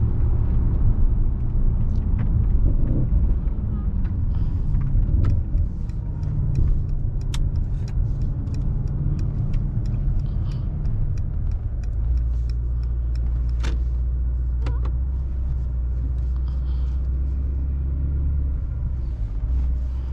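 Mercedes-AMG S63's twin-turbo V8 running under way, a low rumble that settles into a steady low drone about twelve seconds in, with a few sharp clicks scattered through it.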